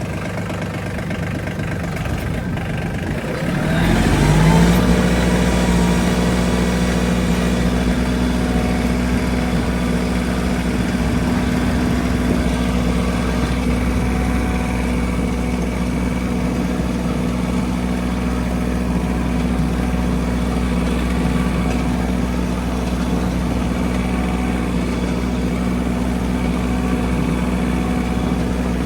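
Tractor engine running at idle, then throttled up about four seconds in with a rising pitch, and held at a steady higher speed.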